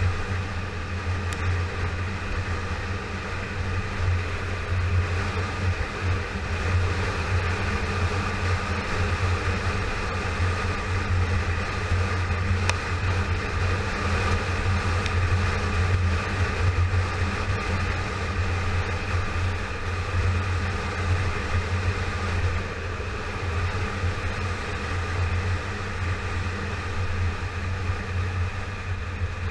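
2009 Yamaha FZ6R's 600 cc inline-four running at a steady cruise, with wind rushing past. The pitch holds even, with no revving or gear changes.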